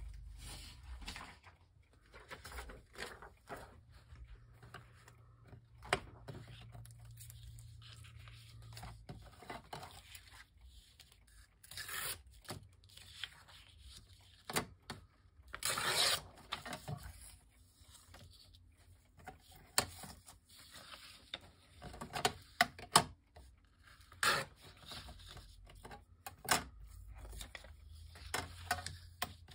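Paper being handled and torn by hand: intermittent rustling, tearing and scraping sounds with a few sharper ticks and taps, the loudest bursts around the middle.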